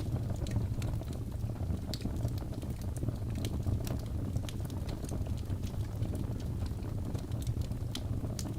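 Birch logs burning in a fireplace: a steady low rumble of the flames with frequent sharp, irregular crackles and pops.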